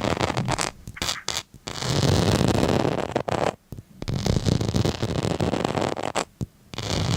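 Rough scratching or scraping strokes. After a few short ones come longer strokes of about two seconds each, with brief pauses between them.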